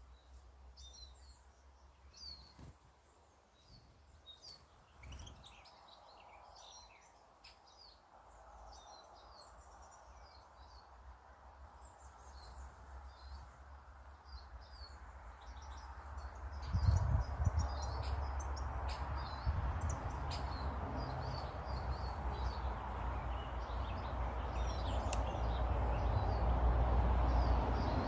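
Small songbirds chirping and twittering. From about halfway a rumbling noise builds up and grows louder to the end, becoming the loudest sound.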